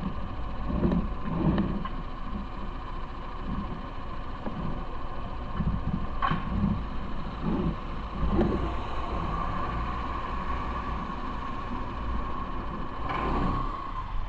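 Road noise from riding on city streets: a steady low rumble of traffic and motion with scattered low thumps, and a thin steady whine from about the middle on.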